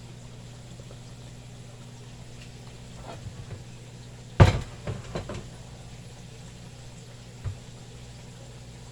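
A sharp, loud kitchen knock, like a cupboard door or pan being set down, about halfway through, followed by a few lighter clatters and one more knock near the end. Under it runs a steady low hum and a faint hiss, typical of chicken frying in oil.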